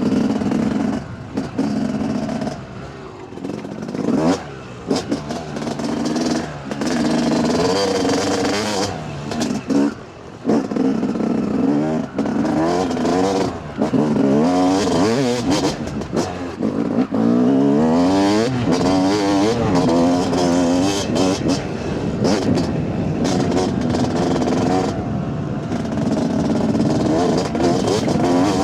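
Dirt bike engine being ridden off-road, revving up and easing off again and again, its pitch sweeping up and down, with a few brief drops in loudness.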